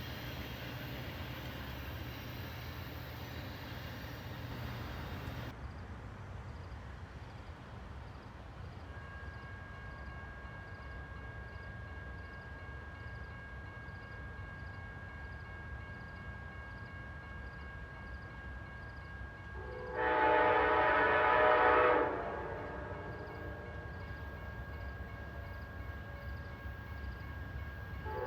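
Low rumble of an approaching train, then one loud horn blast of about two seconds from an Amtrak diesel locomotive's air horn about twenty seconds in, with a second blast starting at the very end.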